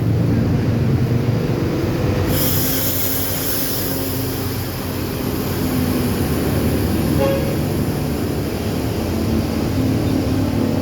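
A bus's diesel engine running as the bus pulls out of the terminal, with a steady whine over the engine note. A high hiss starts abruptly about two seconds in and carries on.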